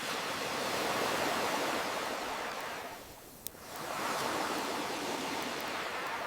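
Ocean waves washing ashore in slow swells: one wash eases off about three seconds in and the next builds. A single sharp crackle from a wood fire pops in the lull between them.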